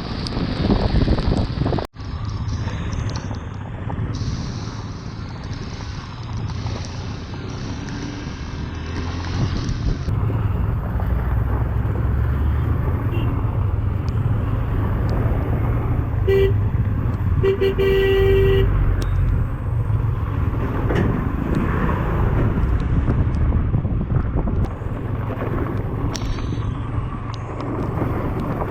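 Motorcycle on the move, Yamaha FZ V2, with steady wind and road noise over the microphone. A vehicle horn sounds twice about two-thirds of the way through: a short toot and then a longer blast.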